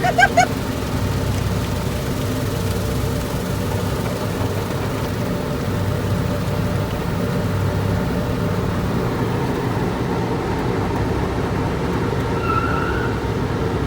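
Steady low mechanical rumble inside a car riding through a tunnel car wash, with a brief faint tone near the end.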